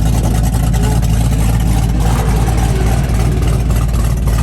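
1937 car's engine running steadily after its first cold start of the morning.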